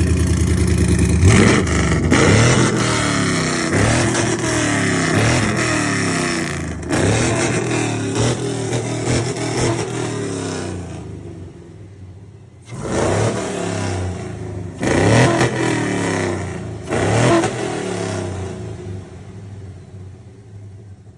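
Swapped-in Chevy 6.0-litre V8 being free-revved: a string of quick blips, each rising and falling in pitch, then a short lull before three more sharp revs about two seconds apart.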